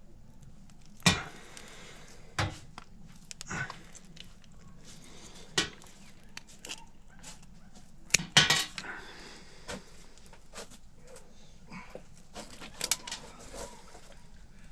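Irregular clanks, knocks and clinks of metal tools and parts being handled, loudest about a second in and in a quick cluster around eight seconds in.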